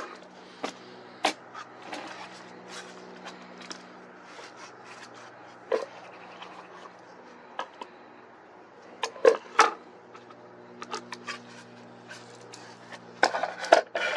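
Irregular clicks and knocks of a plastic bottle and tools being handled, with a cluster of louder knocks about two-thirds of the way through and again near the end, over a steady low hum.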